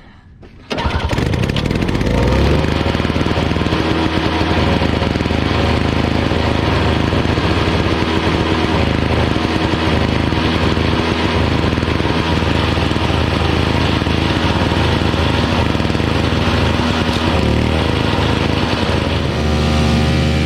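Small snowblower's engine starting up about a second in and running steadily; its tone shifts near the end.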